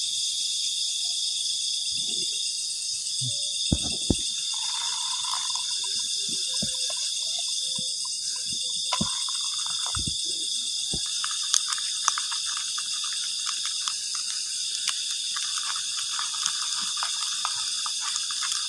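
Night insect chorus of crickets, a steady high buzzing, with scattered short knocks.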